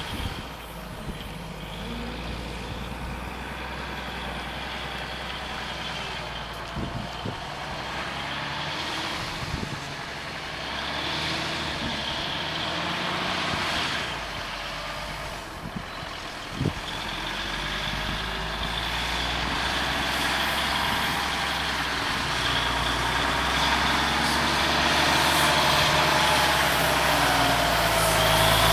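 Heavy truck's diesel engine idling steadily, growing gradually louder over the second half, with a few sharp clicks along the way.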